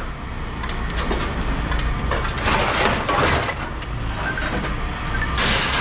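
A heavy machine's engine running steadily, with bursts of scrap metal crunching about two and a half seconds in and again near the end.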